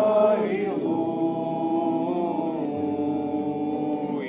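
A group of voices singing a hymn refrain, a drawn-out 'alleluia' that slides into a long held note.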